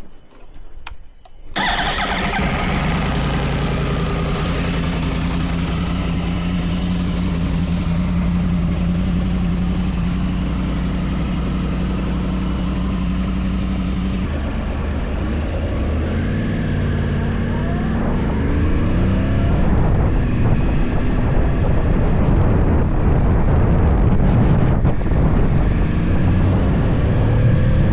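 Yamaha YZF-R1 crossplane inline-four engine with a full Akrapovič exhaust starting up suddenly about two seconds in and idling steadily. About halfway it revs, its pitch rising and falling repeatedly as the bike pulls away and runs up through the gears.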